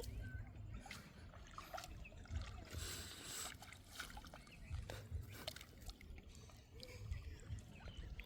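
Faint water sloshing and trickling, with scattered light knocks and clicks.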